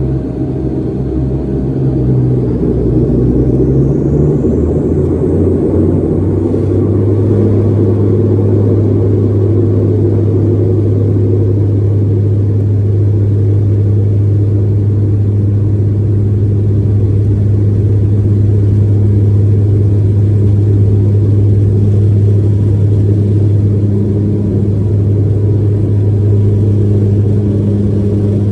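Dash 8-400 turboprop engines and propellers heard from inside the cabin, spooling up: a high whine rises in pitch and the noise grows over the first few seconds, then settles into a steady, loud, low propeller drone, as when power is set for takeoff.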